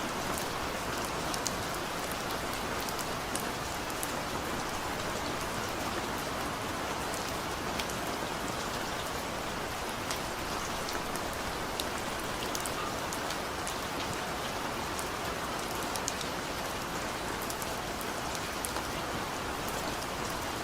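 Steady rainfall, a continuous hiss of rain with many small drops ticking on a hard surface.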